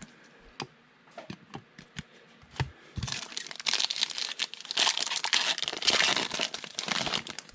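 A few light clicks and taps of cards being handled, then from about three seconds in a long stretch of crinkling and tearing as a foil trading-card pack wrapper is ripped open.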